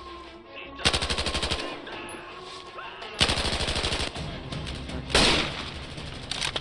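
Machine-gun fire in a movie firefight: a short burst of rapid automatic shots about a second in, then a longer burst about three seconds in. A louder single bang follows about five seconds in.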